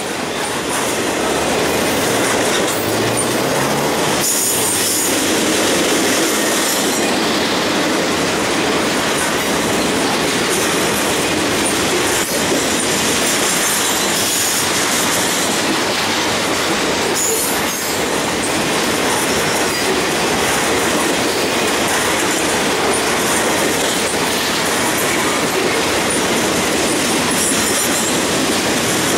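Loaded rail-carrying flatcars of a continuous-welded-rail train rolling past: steel wheels on the track with a steady rumble and clatter, and a few brief high-pitched wheel squeals.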